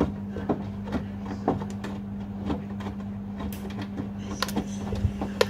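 Washing machines running mid-wash: a steady motor hum with short knocks and clicks about twice a second as the drum turns the load.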